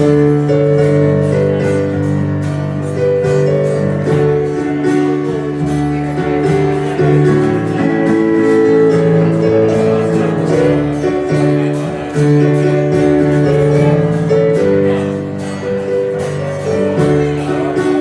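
Acoustic guitar strummed in a steady rhythm, chords ringing on: an instrumental passage with no singing.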